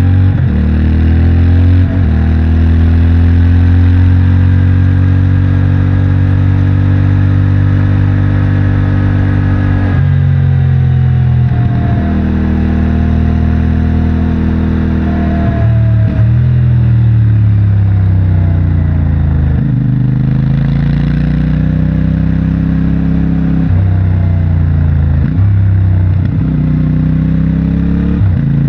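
CFMOTO 450MT motorcycle's 449 cc parallel-twin engine through its stock exhaust, pulling under load as the bike is ridden. The engine note rises and falls repeatedly, with several short breaks where it drops or jumps in pitch as the throttle closes and gears change.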